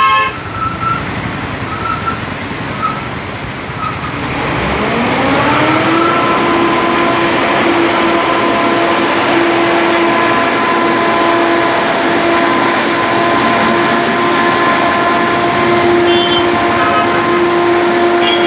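A motor-driven machine winds up over about two seconds and then runs at a steady speed, giving a loud steady whine over a rumbling mechanical background.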